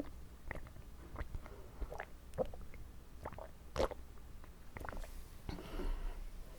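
Wet mouth sounds close to the microphone: scattered clicks and smacks of a mouth working with water, with a short soft swishing noise about five seconds in.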